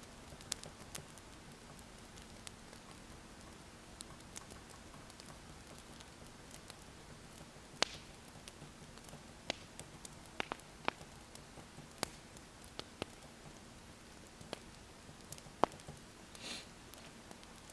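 Wood fire crackling: irregular sharp pops and snaps, some much louder than others, over a faint steady hiss and low hum. A short scratchy sound comes about a second before the end.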